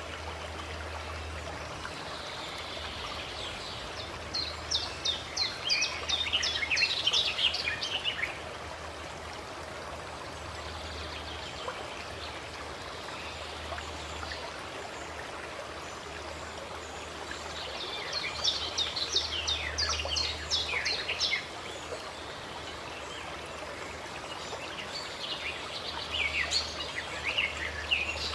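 Steady running water, with a songbird singing three bursts of quick high chirps: a few seconds in, about two-thirds through, and near the end.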